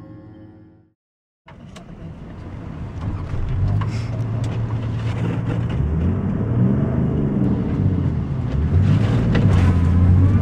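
Music fading out, a moment of silence, then a vehicle's engine running as it drives, heard from inside the cabin. The engine pitch rises and falls, with rattles on top.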